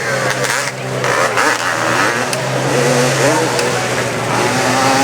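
Hill-climb motorcycle engine running hard and revving up and down as the bike climbs the hill.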